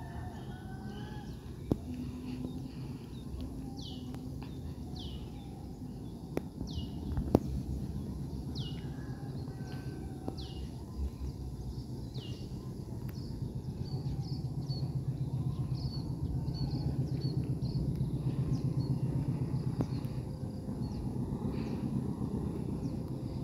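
A bird giving a short falling whistle over and over, about once a second, with fainter chirps later on, over a low rumble that swells in the second half. Two sharp clicks, one early and a louder one about seven seconds in.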